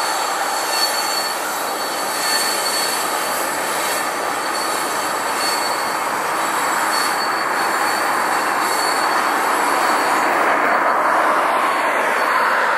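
Freight train of tank cars rolling past at a steady speed: a continuous rumble and clatter of steel wheels on rail, with a thin high tone that swells and fades.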